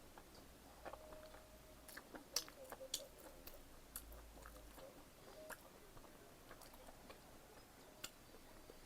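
A person chewing pizza close to the microphone: faint mouth clicks and smacks, busiest a couple of seconds in and thinning to a few scattered ticks later on.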